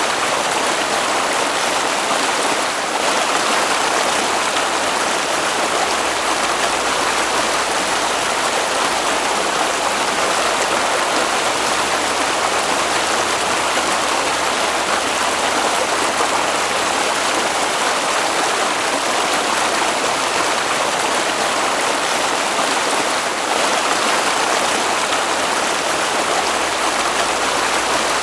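Flowing water of a stream, a steady even rushing with no breaks.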